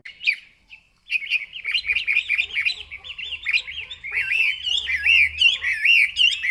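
Chinese hwamei (melodious laughingthrush) singing: a short note, then from about a second in a fast, continuous warbling song of loud whistled notes sweeping rapidly up and down.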